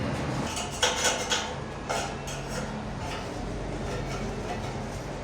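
Metal clinking and knocking, a few sharp clinks about a second in and near two seconds, over a steady low hum.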